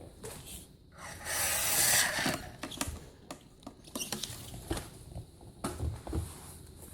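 Plastic play balls rattling and knocking against each other, with a louder rustling rush about a second in as they are churned up.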